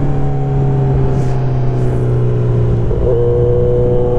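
Kawasaki Z900's inline-four engine running at a steady pitch while being ridden, its note shifting slightly about three seconds in, with wind rumbling on the microphone.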